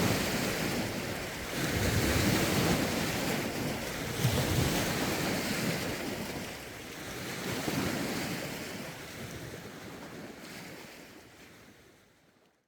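Lake waves washing ashore, a surge every two or three seconds, with wind buffeting the microphone. The sound fades away gradually over the last few seconds.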